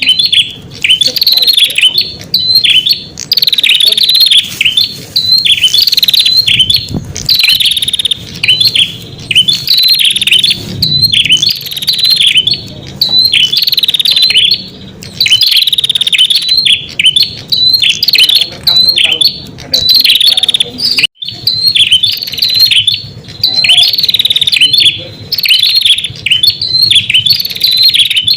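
Red-headed prenjak calling: fast series of sharp, high chirps repeated in short phrases about once a second. This is a lure call used to draw in wild prenjak.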